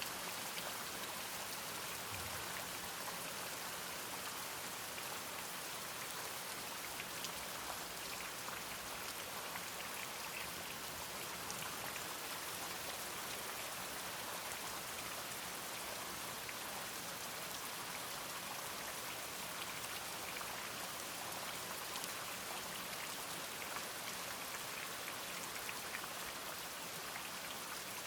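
Steady rain falling, with individual drops ticking faintly through an even hiss.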